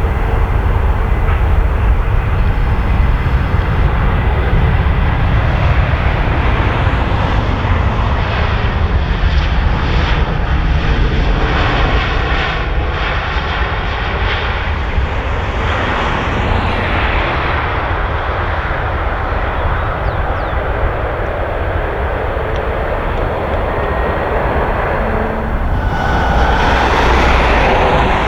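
Airliner jet engines running loud and continuous, a dense rushing roar with a deep low end that swells again near the end.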